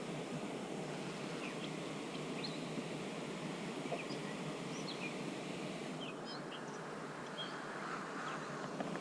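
Steady outdoor background noise with scattered short, faint high-pitched chirps.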